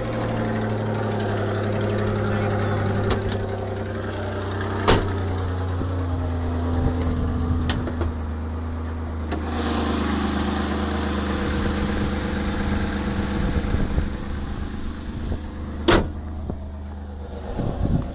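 2002 Ford Escape's 3.0 L V6 running at idle, with exhaust leak noise; the owner is unsure whether the leak is at the donut gasket where the front header pipe comes down or in the rear exhaust manifold behind the heat shield. A hiss rises for a few seconds midway, and there are two sharp knocks.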